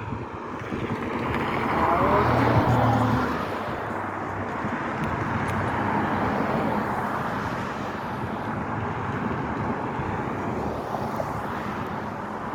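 A vehicle passing by outdoors: a steady rushing noise with a low engine hum that swells to its loudest about two seconds in, then carries on more evenly.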